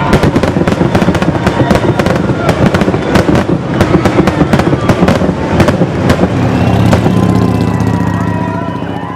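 Fireworks display: a dense run of rapid bangs and crackles that thins out over the last couple of seconds, with a few falling whistles near the end.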